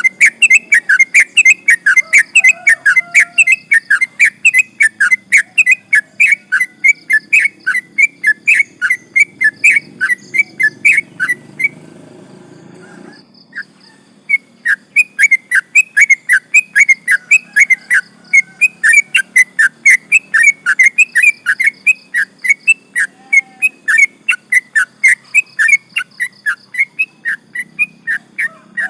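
Yellow-vented bulbul (trucukan) song: a long, fast run of loud repeated whistled chirps, about three to four a second. The run breaks off for a second or two about twelve seconds in, then starts again.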